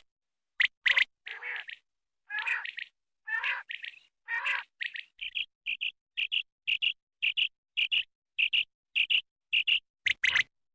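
Common quail calls: a few sharp notes and several longer rasping calls, then a steady series of short high notes, about two a second, with sharper loud notes again near the end.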